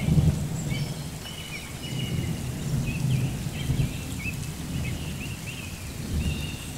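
Thunderstorm: rain with thunder rumbling and swelling now and then, and short high chirps over it.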